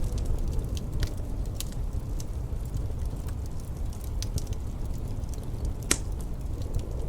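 Wood fire crackling with scattered sharp pops, one louder pop about six seconds in, over a steady low rumble of wind.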